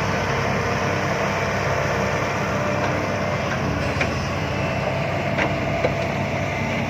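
Heavy diesel engine running steadily at a dump-truck loading site, with no horn sounding.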